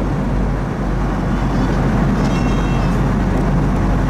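Steady airliner cabin noise: the even low rush of engines and airflow heard from a passenger seat. A brief high-pitched tone sounds about two seconds in.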